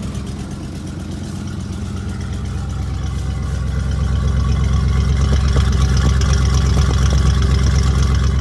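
A 1988 Chevy R30's 350 small-block V8 idling steadily, with an exhaust leak sound like a broken manifold that comes from the broken-off air-injection (pollution) tubes on the exhaust manifolds. The sound grows louder about four seconds in, then holds.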